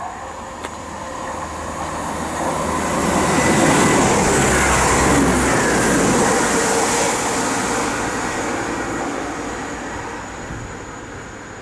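A Class 195 diesel multiple unit approaches and passes through the station at speed without stopping, then fades away. It grows louder to a peak about four to six seconds in, with a falling pitch as it goes by, and wheel-on-rail noise throughout.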